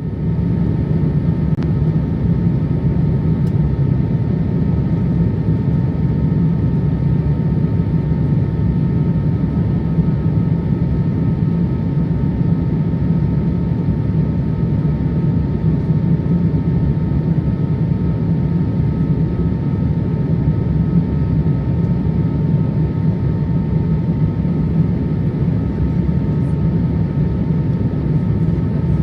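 Steady cabin noise inside a Boeing 787-8 Dreamliner during descent. A deep, even rush of engine and airflow noise sits underneath a few faint, steady high tones.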